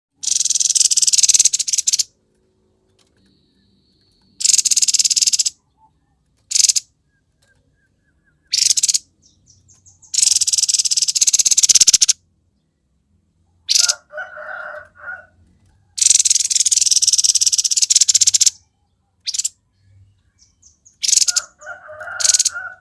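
Grey-headed babbler singing in loud, harsh, rapid high-pitched bursts of one to two seconds, repeated every few seconds, with lower chattering notes between some of the bursts.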